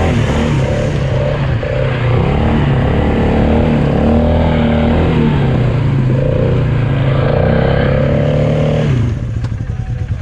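Polaris 570 ATV's single-cylinder engine revving up and down under load as it is driven through mud, then dropping to a lower, quieter tone about nine seconds in as the throttle comes off.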